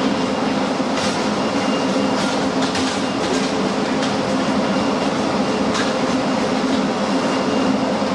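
Train running on the rails: a steady rumble and hum, with a few sharp clicks from the wheels.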